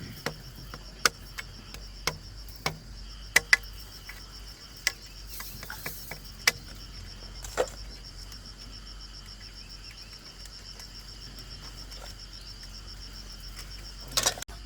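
Insects, likely crickets, trill steadily at a high pitch. Over this, a dozen or so sharp knocks and clicks come at irregular intervals in the first half, and a short cluster of knocks comes near the end.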